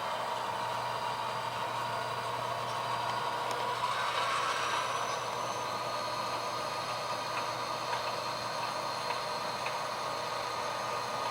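Sound decoder of an HO scale model diesel locomotive playing a steady diesel engine sound as the train moves. The engine note rises in pitch about four seconds in, then holds steady.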